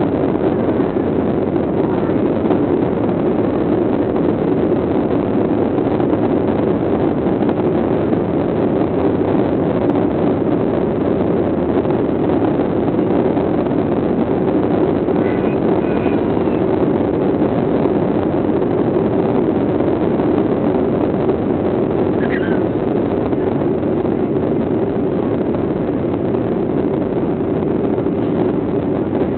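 Jet airliner's engines heard from inside the passenger cabin: a loud, steady drone that holds the same level and pitch throughout.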